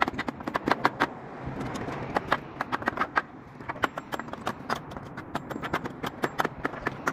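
Sharp, irregular knocking on wood pallets, several knocks a second, thinning out for a moment about midway.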